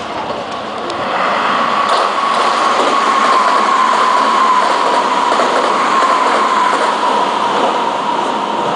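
Meitetsu 3000-series-family electric train running through the station at speed without stopping: loud rumble of wheels on rail, building about a second in, with a steady high whine that sinks slightly in pitch as it goes by.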